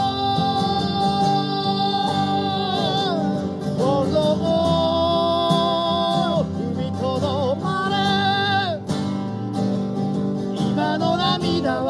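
Acoustic guitar strummed under a singing voice that holds long notes with vibrato, each note bending away at its end.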